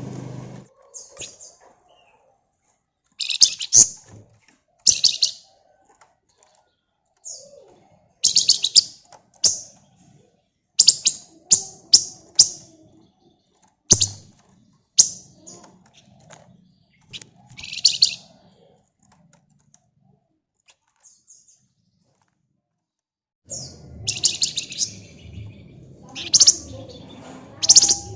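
Flamboyan (Javan fulvetta) singing in short, fast, high-pitched chirping trills, the rapid 'ngebren' bursts, broken by pauses and a quiet spell in the middle.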